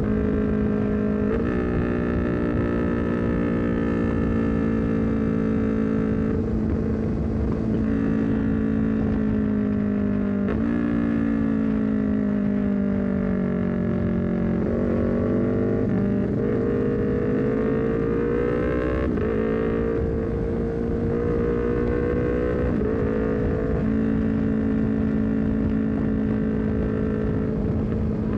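Honda CBR250RR parallel-twin engine running through a full-system exhaust with a Leovince GP Corsa carbon silencer, heard from on board while riding. The engine note holds steady at cruising revs with a few brief steps in pitch from gear changes, falls as the bike slows about a third of the way through, then climbs again under acceleration.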